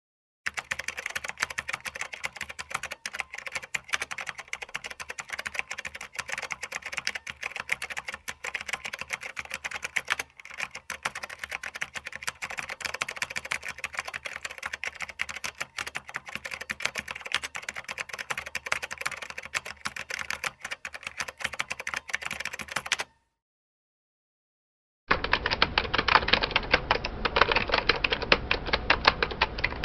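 Fast computer keyboard typing, a dense run of keystroke clicks that stops about 23 seconds in. After a two-second gap, a louder, duller recording of fast typing starts.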